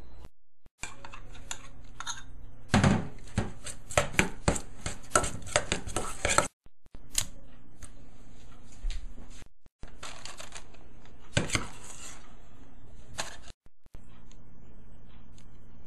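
Kitchen utensils knocking and scraping: a quick run of sharp taps in the first half and scattered knocks later, broken by abrupt cuts.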